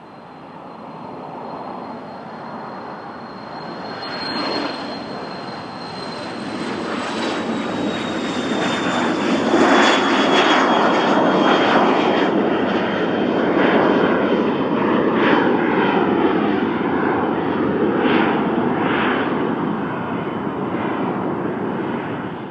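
Cessna 560XL Citation Excel business jet taking off, its two Pratt & Whitney Canada PW545 turbofans building to a loud rushing roar as it passes. A high whine slides slowly down in pitch as it goes by, and the sound cuts off suddenly at the end.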